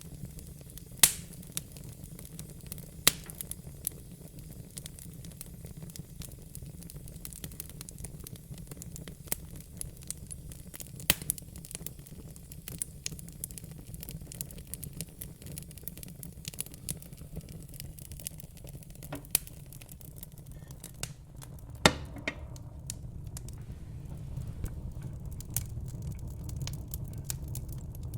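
Wood fire crackling in a fire pit: scattered sharp pops and snaps over a steady low rumble, with a few loud pops and denser small crackles near the end.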